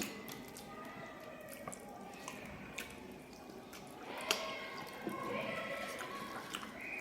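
Close-up eating sounds: soft, wet clicks of chewing and lip smacking. A louder stretch with held tones comes in about four seconds in.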